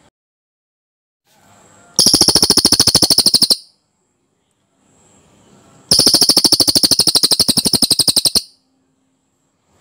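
Cililin bird singing its dense rolling trill: two long, loud bursts of fast, evenly repeated notes, the first about a second and a half long and the second about two and a half seconds, each preceded by a brief softer call.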